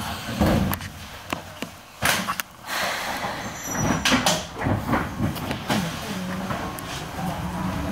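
The passenger doors of an Izu-Hakone Railway 5000 series electric train slide shut with a thud, and a few sharp clunks follow about two seconds in. From about four seconds in, the train starts off, its motors and running gear sounding as it pulls away from the platform.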